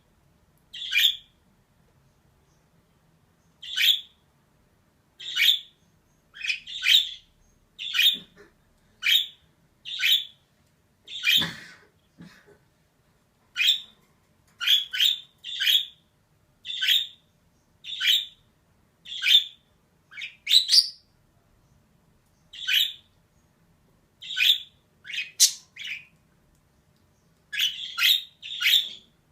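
Female budgerigar chirping: a long run of short single calls, about one a second, with a pause of a couple of seconds near the start.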